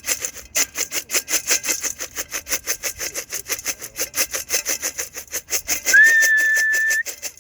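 A pigeon feed tin being shaken hard in a steady rattle of about six or seven strokes a second, the usual call to bring circling racing pigeons down to the loft. About six seconds in, a single whistle sounds for about a second, sliding up at the start and then holding one pitch.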